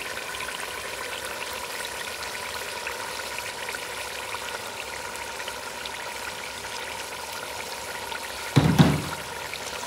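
Tomato masala frying in oil in a stainless steel pot, a steady sizzling hiss as raw chicken pieces are added, with one dull thump near the end.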